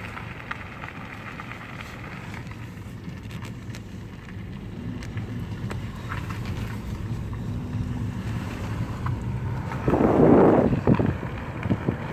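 Steady low rumble of a car moving slowly, with road and wind noise, and a brief louder rush of wind on the microphone about ten seconds in.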